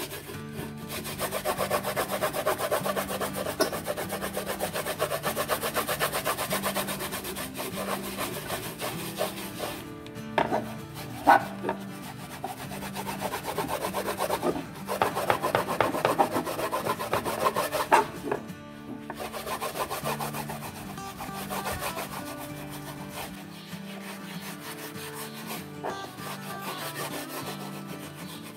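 Steel wool scrubbing back and forth over a solid-wood box, taking off old varnish softened by paste stripper, in quick rhythmic strokes that pause now and then, with a few sharp knocks. Background music plays underneath.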